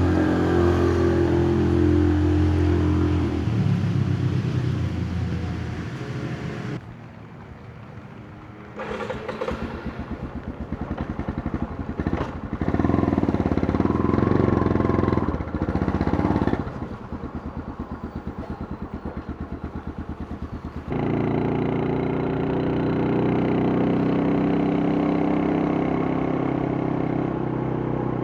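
Yamaha Scorpio's single-cylinder four-stroke engine and exhaust. It runs steadily, drops off suddenly, then idles with an even pulsing beat and a few louder stretches of throttle. About two-thirds of the way through it jumps abruptly back to steady running.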